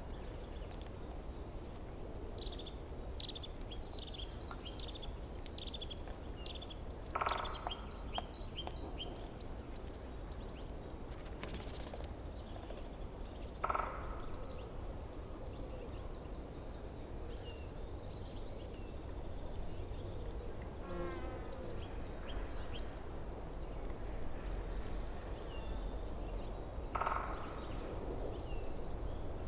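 Forest birdsong: one bird sings a run of about ten quick falling high notes ending in a short trill, and other birds give a few short single calls and a rapid chattering series, over a steady low background rush.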